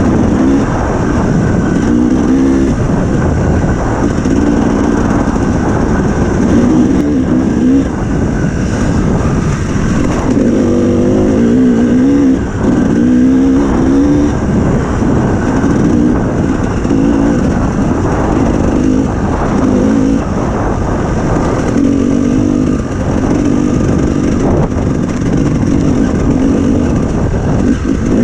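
Enduro dirt bike engine running hard, its revs rising and falling constantly as the rider works the throttle.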